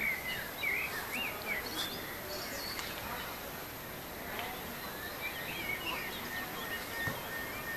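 Songbirds chirping in short bursts over a steady outdoor background hiss; a thin, high steady tone comes in about five seconds in.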